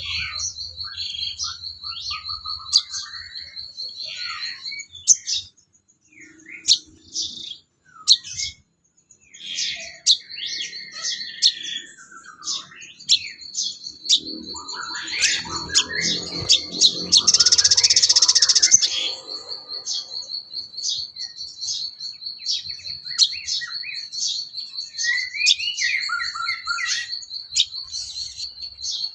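A mix of recorded songbird chirps and whistles over a continuous high, rapid trill, as used to tutor a caged songbird. A louder, rasping stretch comes about two-thirds of the way through.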